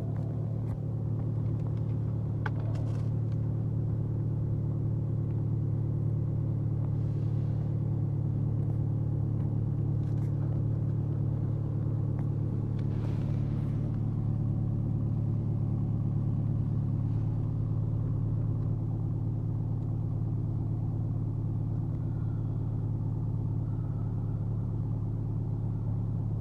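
BMW X1 2.0 diesel engine idling steadily right after a cold start in −18 °C frost, a low even hum with a few faint brief noises over it.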